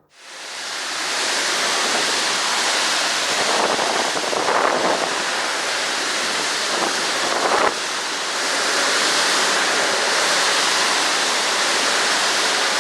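Steady, loud rushing noise of a violent storm, swelling louder a few times. There is a short knock about eight seconds in.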